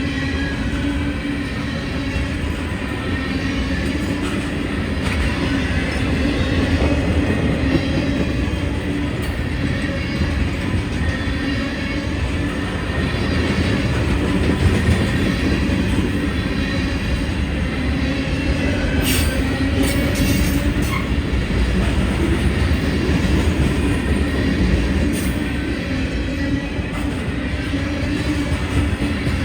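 A train rolling past with a steady rumble of wheels on rail. A few brief, sharp high-pitched sounds come about two-thirds of the way through, typical of wheel squeal.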